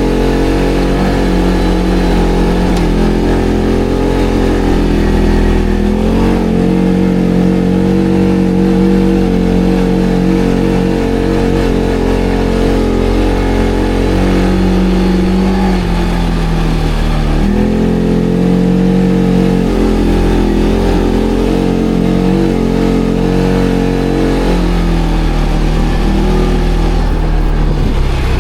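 ATV engine running as it is ridden off-road, its pitch stepping up and down several times as the throttle opens and closes.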